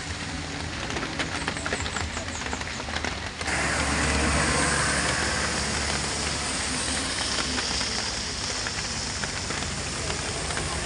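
Truck engine running under a steady hiss of heavy rain. About three and a half seconds in, the sound changes suddenly to a louder, denser hiss over a deeper rumble.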